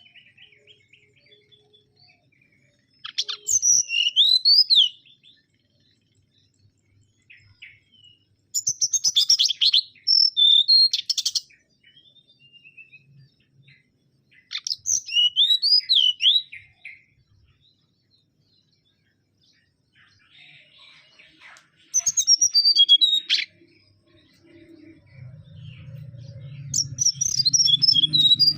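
Mangrove whistler singing: five short, clear phrases of quick rising and falling whistled notes, one about every five or six seconds with pauses between. A faint low hum comes in near the end.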